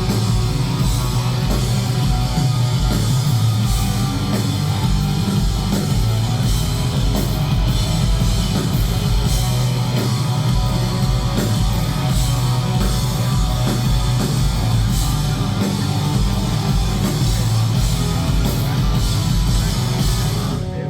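Loud live rock band playing an instrumental passage: heavy distorted electric guitars, bass and a steady drum-kit beat. The full band cuts off suddenly at the very end.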